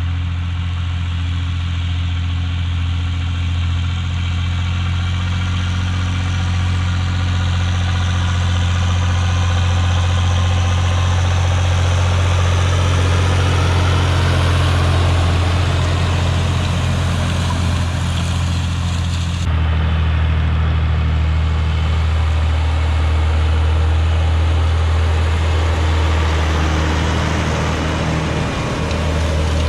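T-150K tractor's diesel engine running steadily while it pulls a seeder at work. About two-thirds through, the sound changes abruptly to a slightly lower, steady engine note.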